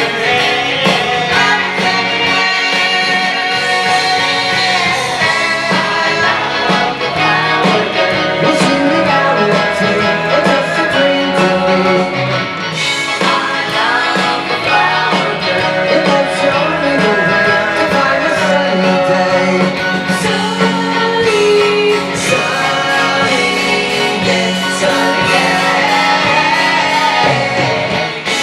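Live pop-rock band playing, with guitar and sung vocals.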